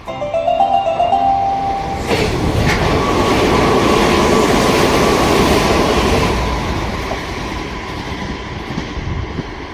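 A train passes through the station at speed: a loud rush of wheels and air builds about two seconds in, holds with a steady tone for a few seconds, then fades away. A short melody of chime-like notes plays at the very start.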